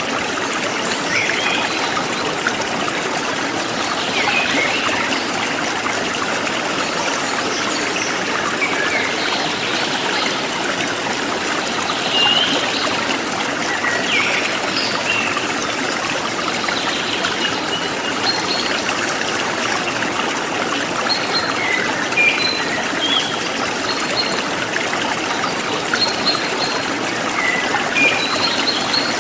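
Forest stream flowing steadily with a trickling, splashing rush, while small birds chirp now and then over it in short high calls.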